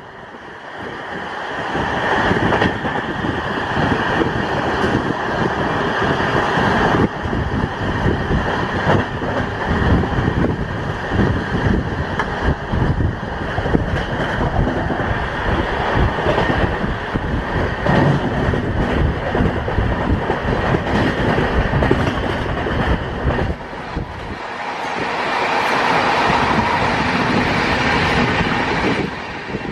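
Poorva Express passenger coach running along the track: a continuous rumble of wheels on rail with rapid clattering clicks over the joints. The sound dips briefly at the start and again about three quarters through, then swells back.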